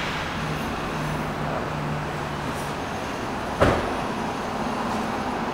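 Four-cylinder car engine idling steadily with the hood open. A single sharp click about three and a half seconds in.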